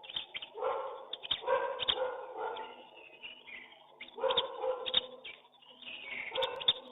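Repeated short animal calls, several in a row with gaps between them, over scattered chirps and clicks.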